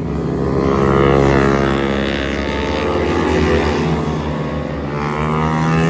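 Mini bike's small engine running under load, its pitch rising and falling as it is revved up and backed off.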